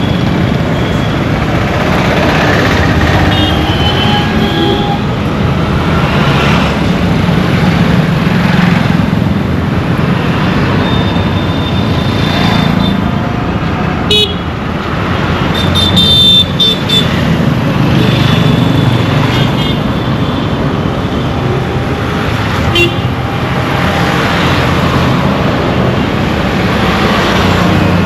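Dense road traffic with engines running and many short vehicle horn toots, the loudest cluster about two-thirds of the way through.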